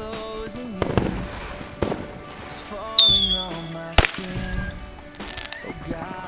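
Consumer fireworks going off: sharp bangs about one, two and four seconds in, with a louder burst about three seconds in. Music plays underneath.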